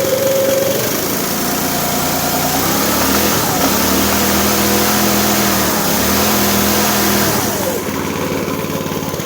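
Small engine of a John Deere go-kart on its first run, revving up about two and a half seconds in and held high for several seconds with a brief dip midway, then dropping back toward idle near the end.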